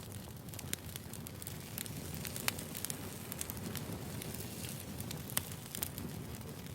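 Burning firewood: a steady low rumble of the fire with frequent irregular crackles and sharp pops, two of them louder, near the middle and near the end.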